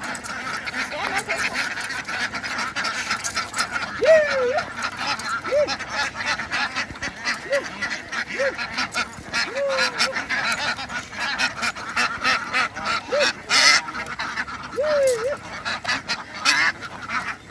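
A large flock of domestic ducks quacking in a dense, continuous chatter, with separate lower calls that rise and fall every second or two.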